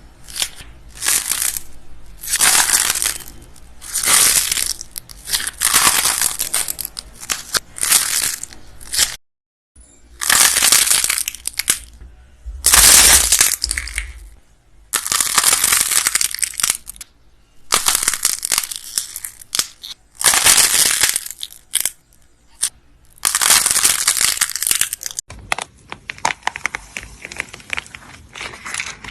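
Repeated crunchy crackling as something brittle is crushed, in bursts of a second or two with short pauses between, broken by abrupt cuts to other clips about nine seconds in and again near the end.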